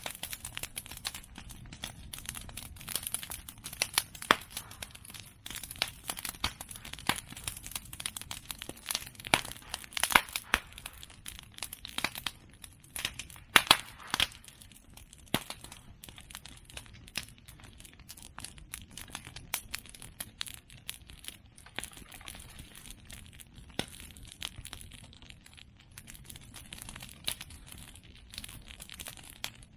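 Open fire of cut bamboo and chestnut prunings crackling steadily, with dense small pops and a few louder sharp snaps, the loudest a pair about halfway through.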